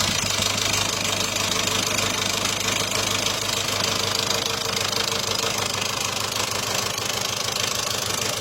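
Peugeot 207 1.6 HDi 16-valve diesel engine idling just after a start, with a fast, steady knocking clatter. This is the abnormal, dangerous-sounding engine noise the car came in for, along with loss of power and low oil pressure; the mechanic calls the engine's state catastrophic.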